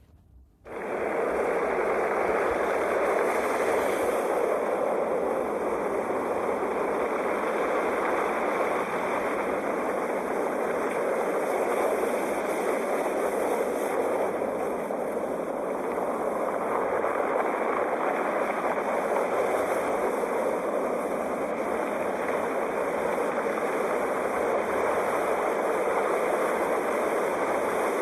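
Sea waves: a steady wash of surf noise, with a brief drop-out within the first second before it resumes.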